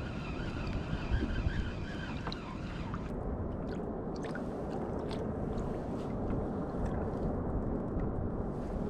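Wind rumbling on the microphone and water lapping around a sea kayak, with a few light clicks and splashes from about three seconds in.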